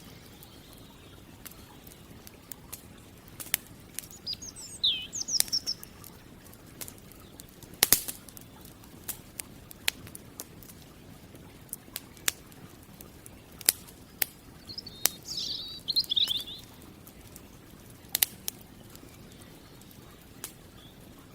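Campfire crackling with sharp, irregular pops over a low steady hiss. A small bird sings two short, quick chirping phrases, about four seconds in and again about fifteen seconds in.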